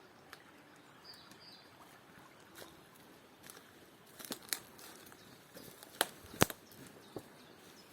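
Scattered sharp clicks and crackles over a faint outdoor background, with a few louder clicks in the second half.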